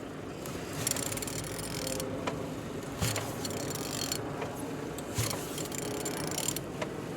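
A removed VW BXE 1.9 TDI diesel engine being turned over by hand with a wrench, with ratchet clicks and short bursts of mechanical clatter every second or two. The engine turns freely.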